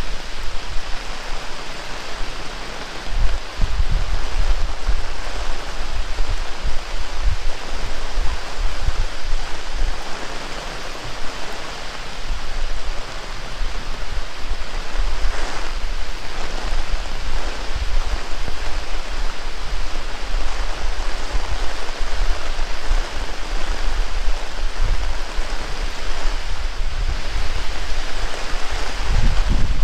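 Heavy rain falling steadily, with irregular gusts of strong wind buffeting the microphone as low rumbles.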